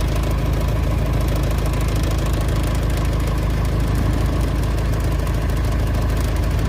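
A vehicle engine running steadily, with a continuous low rumble, heard from aboard the vehicle.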